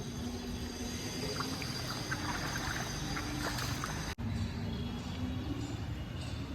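Steady outdoor background noise, a low rumble with hiss and a few faint scattered ticks; the sound drops out for an instant about four seconds in.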